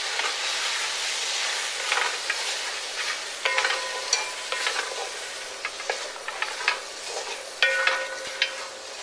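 Chicken pieces frying and sizzling in a hammered metal kadhai, turned with a wooden spatula that scrapes and knocks against the pan. Two of the knocks, a few seconds apart, make the pan ring briefly. The sizzling hiss is strongest in the first few seconds.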